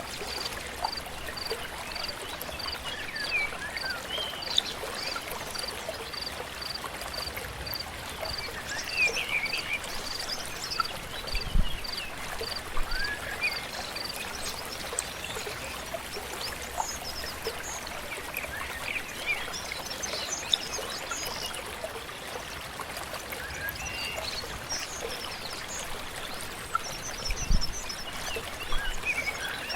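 Flowing river running steadily, with birds chirping here and there over it. A high, evenly repeated note, about two a second, sounds through the first half, and two brief low thumps come in, one near the middle and one near the end.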